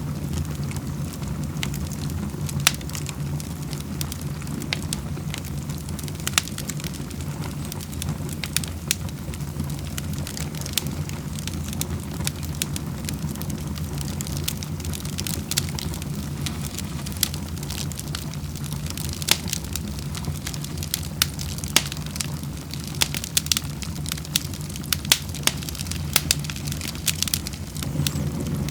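Wood fire burning in a fireplace, crackling with frequent sharp pops and snaps over a steady low rumble. The pops come thicker in the second half.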